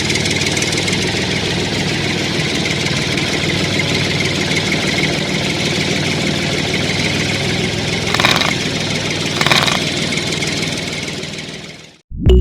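Small electric motor of a homemade mini tractor running steadily with a light whine, with two brief louder rasps about eight and nine and a half seconds in. It fades and cuts off near the end.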